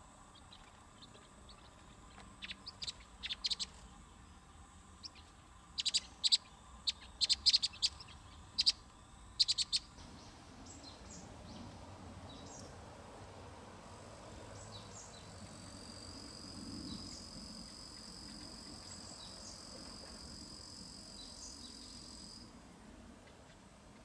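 Small birds chirping: short, sharp, high chirps in quick clusters for the first ten seconds. Later a thin, high, steady note is held for about eight seconds over a faint low background hum.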